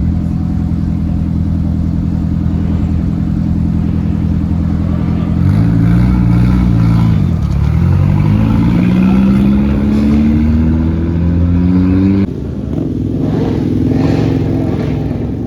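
Car engine idling steadily. About five seconds in its pitch dips and swings back up as it revs, then climbs steadily for several seconds as the car accelerates. A little after twelve seconds the sound cuts abruptly to a quieter, different engine sound.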